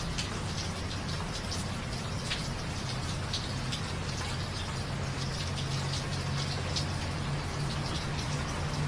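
Steady rain falling, with individual drops pattering through it, over a low steady hum.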